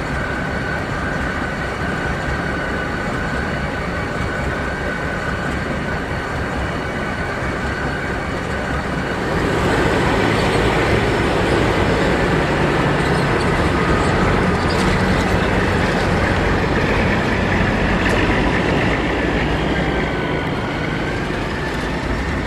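A train rolling on the rails: steady rumbling rail noise with a thin, high wheel squeal, growing louder about ten seconds in.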